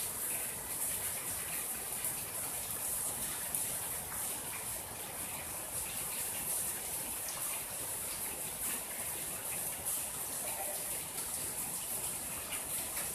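Steady rain falling on a garden: an even hiss, with scattered ticks of individual drops.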